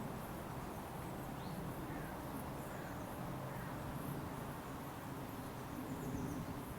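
Quiet outdoor ambience: insects chirping in a faint, evenly repeating pattern, a few short bird chirps, and a steady low hum underneath. The hum grows slightly louder near the end.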